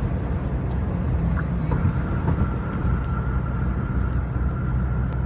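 Steady road and engine drone of a moving car, heard from inside the cabin. A thin, steady high tone joins the low hum about a third of the way in.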